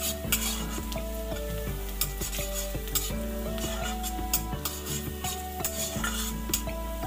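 Sliced onion and green chillies sizzling in hot mustard oil in a steel kadai. A metal spatula scrapes and taps the pan again and again as they are stirred.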